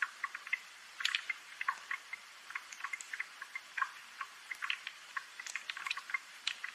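Rain falling, with individual drops landing in irregular, sharp ticks several times a second over a light hiss.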